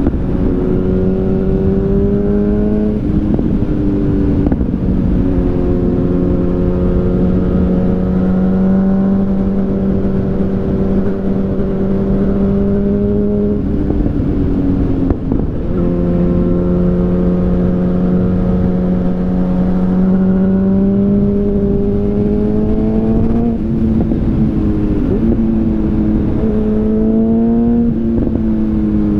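2013 Yamaha FZ8's inline-four engine running through an SC Project oval carbon exhaust while riding, holding a steady note for long stretches. Its pitch dips and climbs again several times, about every ten seconds, as the throttle is eased and reopened.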